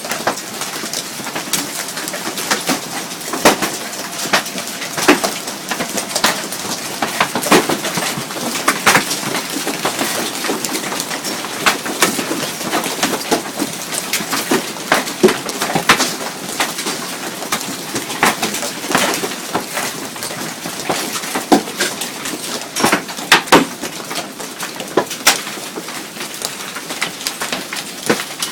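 Heavy hailstorm with hailstones as big as golf balls: a steady rush of falling hail and rain, broken by many irregular sharp cracks and thuds of individual stones striking hard.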